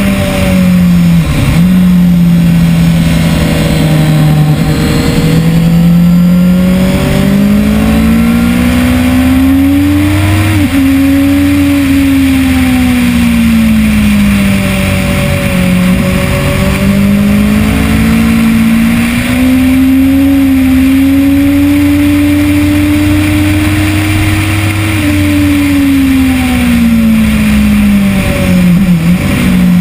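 2010 Kawasaki ZX-10R's inline-four engine under hard riding on a race track, revs rising and falling in long sweeps through acceleration and braking. Quick sharp drops in revs near the start and near the end are gear changes.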